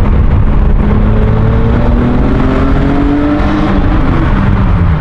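Toyota MR2's engine through its new muffler-less exhaust, heard from inside the car: a steady drone that climbs in pitch through the middle, then falls away near the end as the revs drop.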